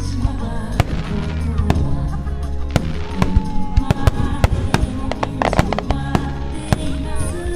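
Aerial firework shells bursting in quick succession over accompanying music, with a thicker cluster of bursts about two-thirds of the way through.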